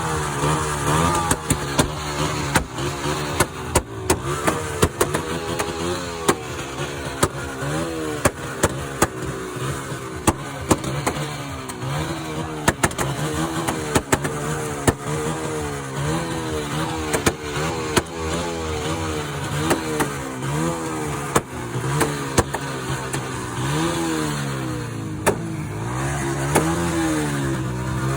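Engines of motorcycles and cars running and being revved, their pitch rising and falling over and over, with many short sharp cracks in between.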